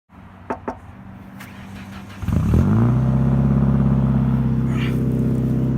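Car engine starting about two seconds in: it rises briefly in pitch, then settles into a steady idle. Two short clicks come before it.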